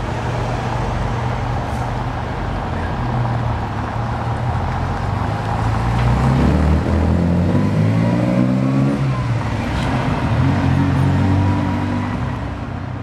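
1973 Ferrari Dino 246 GTS's 2.4-litre V6 running at low revs as the car rolls along. From about six seconds in, the engine note climbs in a few steps as it pulls away.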